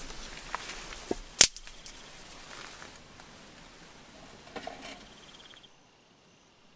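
Outdoor natural ambience, a steady hiss broken by a few sharp clicks, the loudest about a second and a half in. The sound cuts off abruptly near the end.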